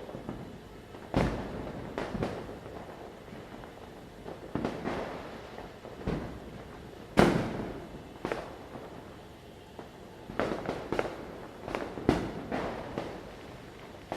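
Diwali firecrackers bursting at irregular intervals, each a sharp bang with an echoing tail, the loudest about halfway through and a quicker cluster of bangs near the end, over a steady background of distant festive crackling.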